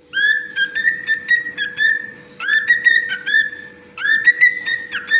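Cockatiel whistling in three short phrases of quick upward-sweeping notes, answering when called, with a faint steady hum beneath.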